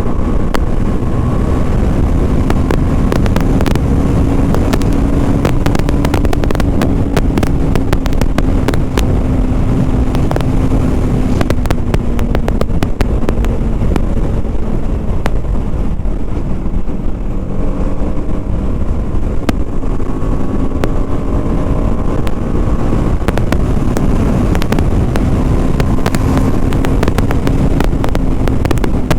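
BMW G 310 RR's single-cylinder engine running on the move, over heavy low wind rumble on the helmet microphone. The engine note sags and fades through the middle and comes back strongly in the last third as the throttle opens again.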